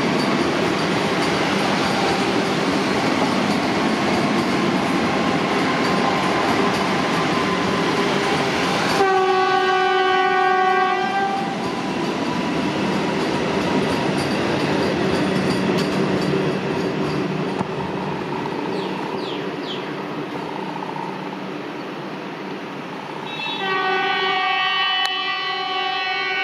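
Vande Bharat Express electric train set running past close by with a loud, steady rumble of wheels on rail. About nine seconds in, a horn sounds for two to three seconds, then the running noise carries on more quietly. Near the end the horn sounds again and holds.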